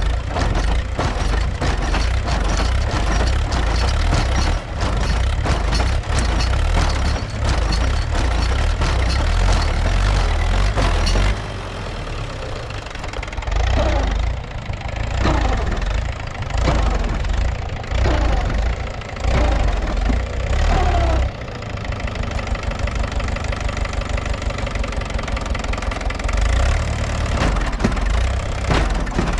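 Mahindra B275 tractor's diesel engine running hard with a knocking note. It drops back about a third of the way through, then works up again in surges.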